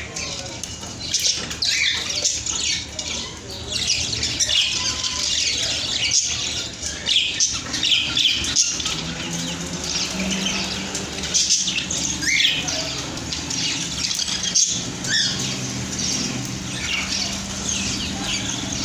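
A flock of budgerigars chattering, with rapid overlapping chirps, warbles and squawks.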